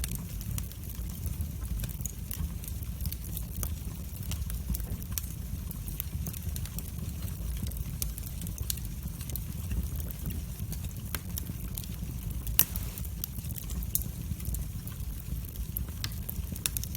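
Wood fire burning in a fireplace: a steady low rumble of flames with irregular sharp crackles and pops, one louder pop about twelve seconds in.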